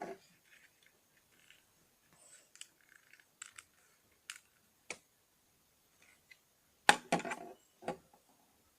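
Plastic Lego bricks clicking and clattering as they are handled and snapped together: scattered small clicks, then a louder burst of clatter about seven seconds in.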